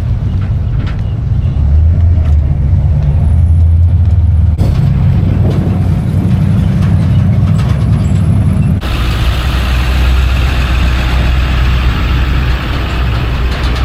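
Truck engines running with a loud, steady low rumble. The sound changes abruptly twice, about four and a half and nine seconds in, and after the second change a hiss rises over the rumble.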